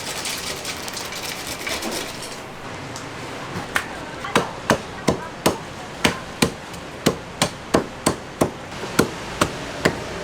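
A knife or cleaver chopping on a cutting board in steady strokes, about two to three a second, starting a few seconds in, typical of cutting a whole fried chicken into pieces. Before the chopping there is a steady hiss.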